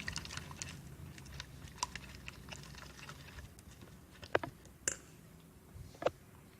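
Homemade slime being mixed and squished: scattered small sticky clicks and pops, with a few louder snaps in the second half.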